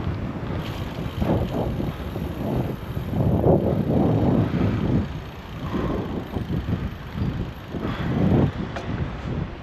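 Wind buffeting a bike-mounted GoPro's microphone while cycling, in irregular low rumbling gusts, over the sound of road traffic.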